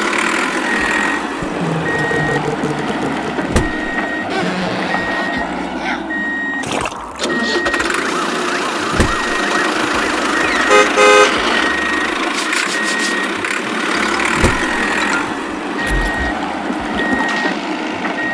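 Heavy vehicle engines running, with a short high beep repeating evenly like a reversing alarm, and a double horn honk about eleven seconds in.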